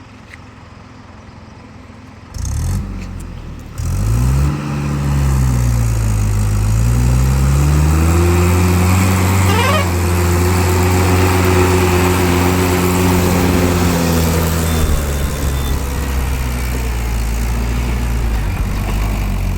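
Tractor diesel engine close by, revving up about four seconds in and then held at high revs, easing off slightly near the end. A brief rising whistle sounds around the middle.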